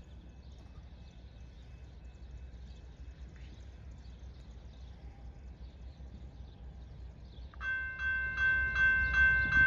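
Low rumble of an approaching train. About three-quarters of the way in, a locomotive horn starts sounding a sustained chord of several notes that grows louder.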